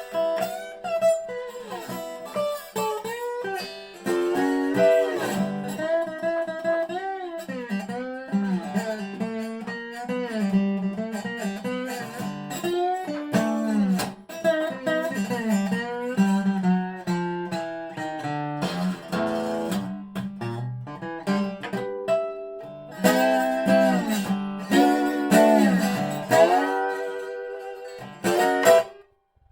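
Natural-maple 1985 Dobro spider-cone resonator guitar played with a slide in regular tuning: picked notes whose pitch glides up and down between them. The playing breaks off for a moment near the end.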